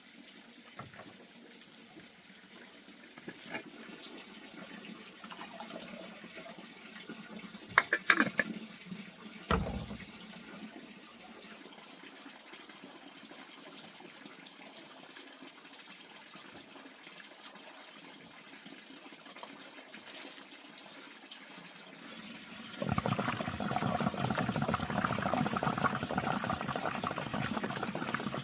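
Running water, faint at first and much louder from about 23 seconds in, with a few sharp clicks and a dull thump about eight to ten seconds in.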